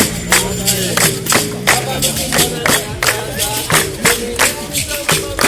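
Capoeira music: berimbau with a pandeiro and hand claps beating a steady rhythm of sharp strikes under held notes and voices.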